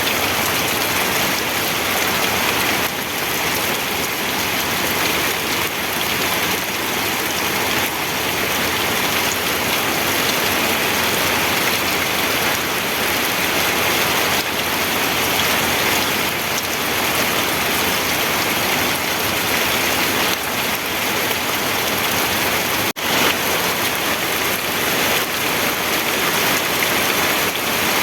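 Steady rain falling on a surface, an even dense hiss with no thunder. It drops out for a split second about three-quarters of the way through.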